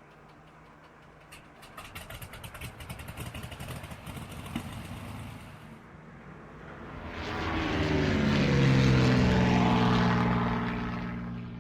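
Propeller airplane: rapid crackling clicks of the engine, then a loud pass that swells about seven seconds in, its engine note sliding in pitch, and fades near the end.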